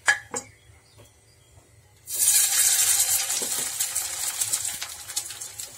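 Hot oil in a frying pan sizzling loudly as a shallow-fry patty of beaten rice (aval) and mashed potato is laid into it; the sizzle starts suddenly about two seconds in and runs on steadily. A sharp click comes right at the start.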